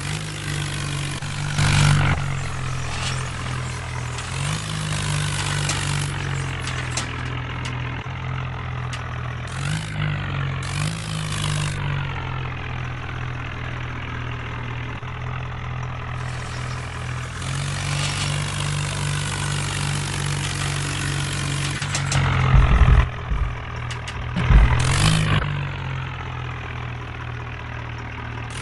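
Tractor engine running steadily, picking up revs briefly several times, with a few loud jolting bumps a little over three-quarters of the way through.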